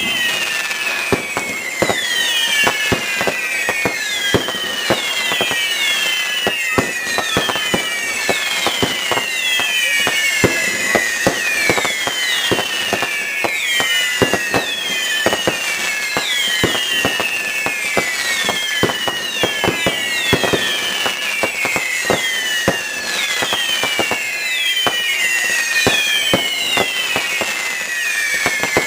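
Fireworks display: a steady run of bangs and crackles, with many overlapping whistles that each fall in pitch, about one a second.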